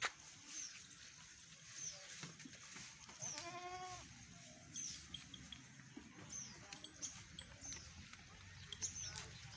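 A goat bleats once, a single wavering call a little over three seconds in, lasting under a second. Short high chirps repeat throughout.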